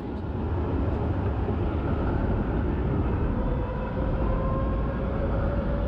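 Heavy vehicle running close by on a city street: a deep rumble that builds up at the start, with a faint whine that slowly rises in pitch as it speeds up.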